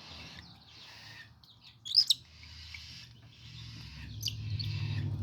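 Baby cockatiel chicks giving raspy, hissing food-begging calls while being hand-fed by syringe, with a sharper, louder call about two seconds in. A low steady hum grows louder near the end.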